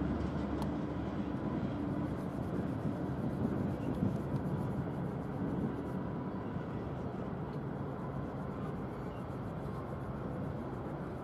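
Freight train of tank cars rolling past: a steady low rumble of wheels on the rails that eases a little toward the end.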